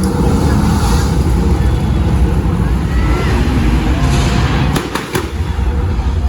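Stunt cars' engines running loudly in a steady rumble, with two sharp bangs in quick succession about five seconds in.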